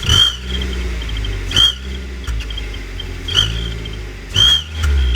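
Car engine revved in four short blips, each blip sounding an aftermarket exhaust whistle fitted in the tailpipe as a brief high whistle that rises and falls, with a faint whistle at idle between blips.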